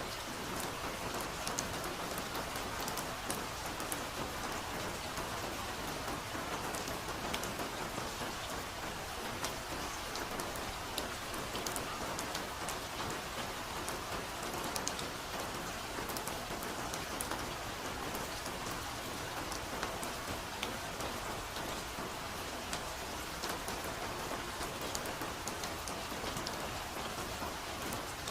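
Steady soft rainfall, a continuous hiss with many small drop ticks scattered through it.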